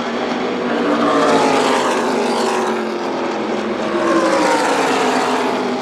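A pack of NASCAR trucks passing at full speed, their V8 engines' pitch falling as they go by, in two waves: about a second in and again around four seconds in.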